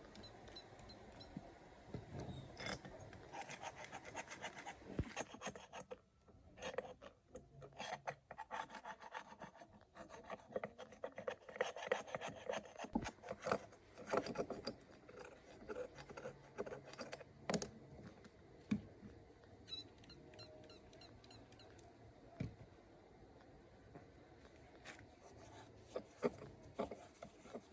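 Hand tools scraping and rubbing on engine parts, with scattered clicks and taps in an irregular rhythm.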